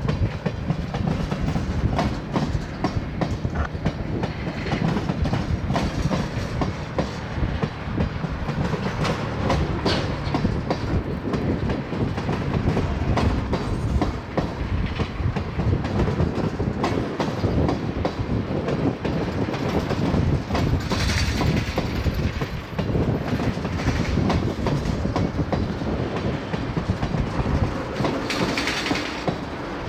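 Tank cars of a freight oil train rolling past, with a steady clickety-clack of steel wheels over the rail joints that continues throughout.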